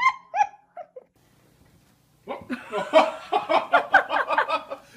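A pet's short, high calls, four of them each falling in pitch, in the first second. After a pause comes a longer run of rapid, choppy, voice-like sounds, louder than the calls.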